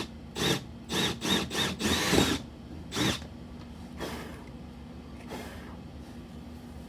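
Power drill run in short bursts, about six quick pulses in the first three seconds and then a few fainter ones, boring the hole for a motion detector's wire.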